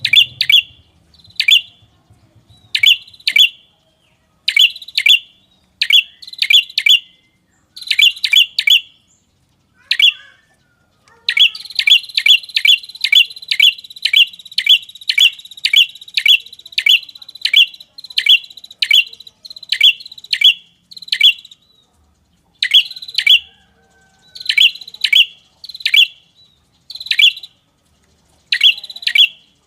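Red-headed prenjak lure call: sharp, high chirps in clusters of two or three. In the middle they give way to a long, fast run of chirps over a steady buzzing trill, then the clusters come back.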